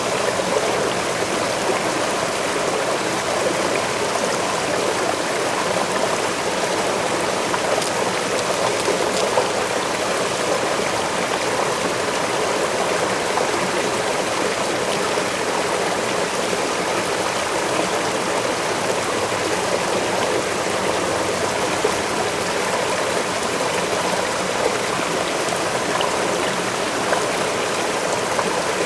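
Waterfall pouring steadily, an unbroken rush of water strongest in the middle range, with a few faint ticks of splashing.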